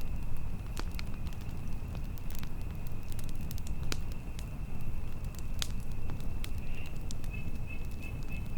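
Campfire crackling, with scattered sharp pops over a steady low rumble of wind, and a thin, steady high tone running behind.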